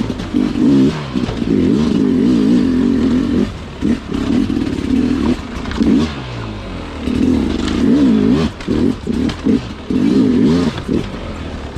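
Sherco two-stroke dirt bike engine lugging at low revs in second gear, the throttle opened and closed in repeated short surges with brief dips between them.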